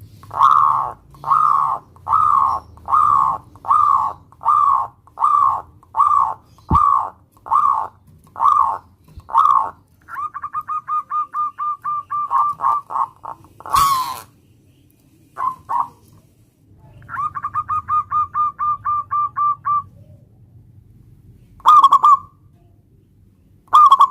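Zebra dove (local perkutut) cooing: a run of about a dozen evenly spaced coo notes, then rapid stuttering trills of short notes, and a few single notes near the end. A sharp click comes about 14 seconds in.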